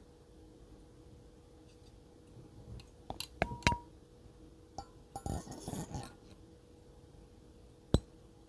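Fingers tapping on small hard objects. A few sharp taps come about three seconds in, one leaving a short ringing ping. A quick flurry of taps and scratching follows around five to six seconds, then a single tap near the end, with quiet gaps between.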